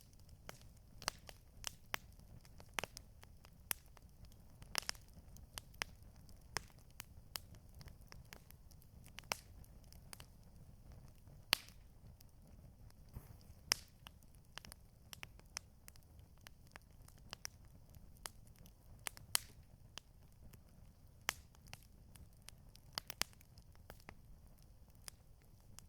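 Campfire crackling: irregular sharp pops and snaps, a few a second, over a steady low rumble.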